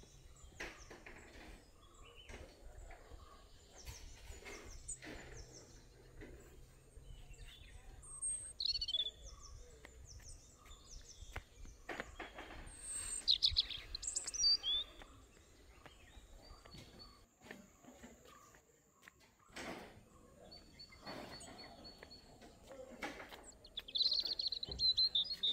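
Wild birds calling: scattered short high chirps over a faint background, the loudest about halfway through, and a fast trill near the end. Faint ticks and knocks come and go under them.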